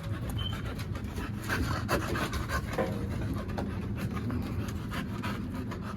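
A dog panting rapidly and steadily, typical of a bitch in labour while whelping her puppies.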